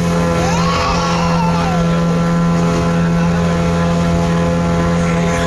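Motor boat engine running steadily at cruising speed. A brief tone rises and then falls during the first two seconds.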